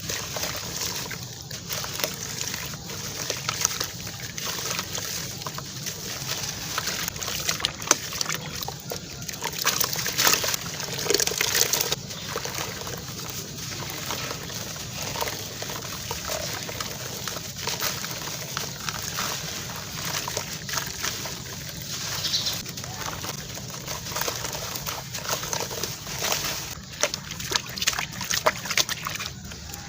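Crunchy sand-cement chunks being crushed and crumbling, a dense run of small crackles and crunches, louder about a third of the way in.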